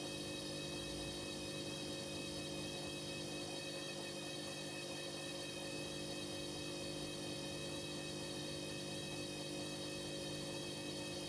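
Hoover H-Wash 300 washing machine running mid-cycle: a steady hum and whine that holds at one pitch without change.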